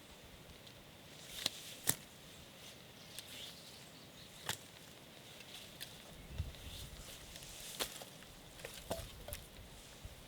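Scattered sharp knocks and clicks at irregular intervals, the loudest two close together about one and a half to two seconds in, over a faint steady hiss.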